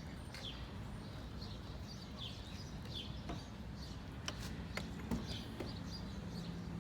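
Birds chirping in the background: short falling chirps every second or so. A few sharp clicks and taps come in the middle.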